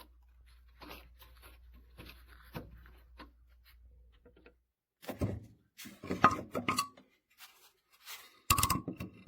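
Knocks and clinks of small hard objects being handled, sparse and faint at first, then louder and more frequent from about halfway, some ringing briefly.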